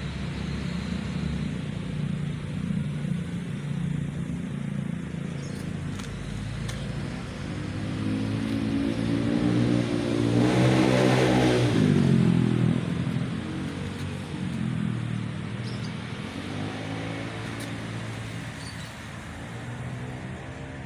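Honda cafe racer motorcycle engine running, swelling louder about halfway through as its pitch climbs and falls back, with a smaller rise later.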